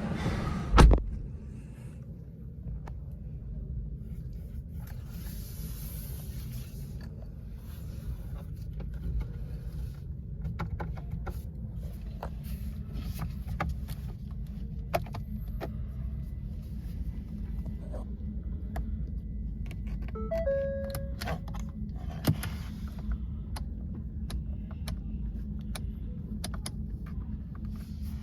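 Handling sounds from a pickup truck: a heavy thump about a second in, then a steady low rumble with scattered clicks and a few short beeps around twenty seconds in.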